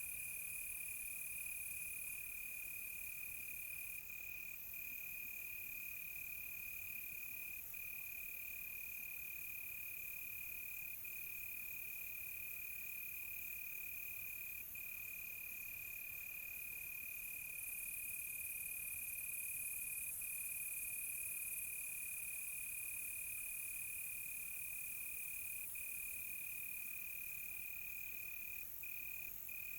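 Crickets in a steady night chorus: one continuous high trill that breaks off briefly now and then, over a fainter, higher hiss of insects.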